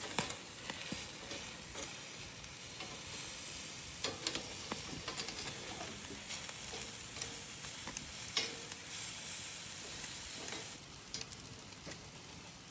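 Food frying and sizzling in a pot while it is stirred: a steady hiss with scattered clicks and scrapes.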